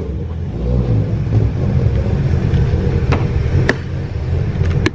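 Car engine running with a steady low rumble, with a few short sharp clicks in the second half.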